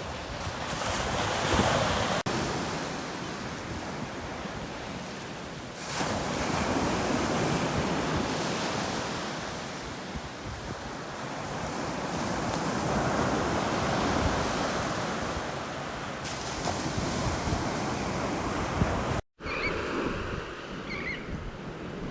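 Ocean surf breaking on a beach: a continuous wash of waves that swells and subsides every few seconds. The sound cuts out for an instant near the end and comes back slightly different.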